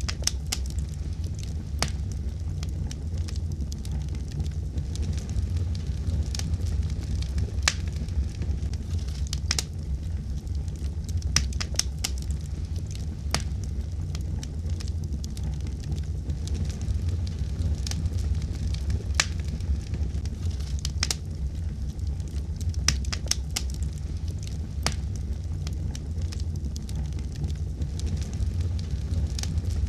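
Wood fire crackling in a fireplace: a steady low rumble of flames with irregular sharp pops and snaps, several of them in quick clusters.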